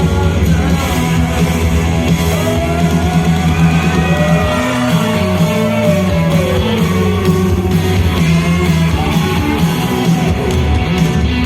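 Rock band playing live, with guitar, bass and drums, and a lead melody line that bends and glides in pitch over a steady backing.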